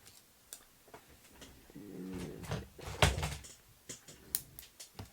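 Small clicks and taps of craft supplies being handled on a tabletop, with one louder knock about three seconds in. A brief hummed murmur comes just before the knock.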